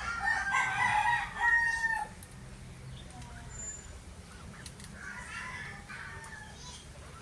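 Rooster crowing: one long crow over the first two seconds, then fainter calling around five to six seconds in.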